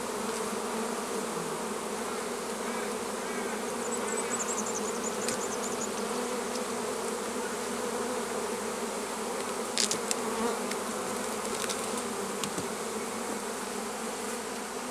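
A swarm of honeybees buzzing steadily around an open hive box, an even drone. A few faint clicks about ten seconds in.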